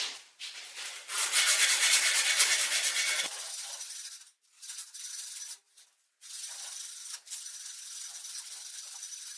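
Sanding-type abrasive rubbing: a loud stretch of quick strokes lasting about two seconds, then quieter passes of rubbing broken by short pauses.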